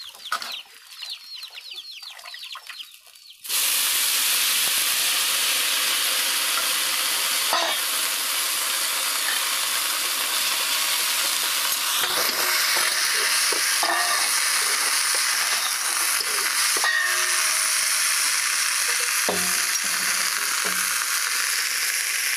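Faint chicken calls, then about three and a half seconds in a loud, steady sizzle starts suddenly: chopped cabbage greens frying in hot oil in a wok. A few short knocks of the stirring spatula against the wok are heard.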